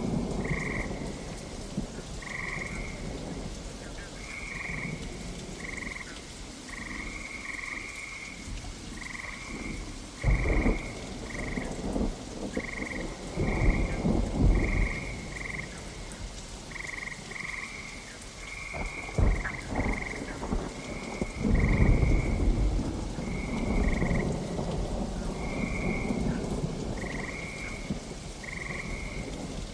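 Steady rain with frogs calling in short repeated croaks, about one a second. Several low rumbles of thunder roll through in the middle, the loudest near the middle and again a little past two-thirds of the way.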